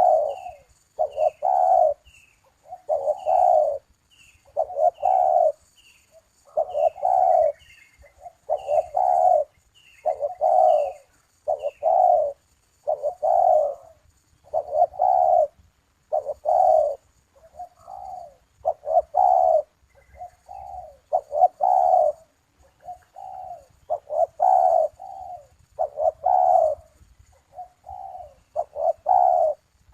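Puter doves (collared doves) cooing over and over, about one coo phrase a second. A short high chirp repeats quickly alongside them through roughly the first twelve seconds.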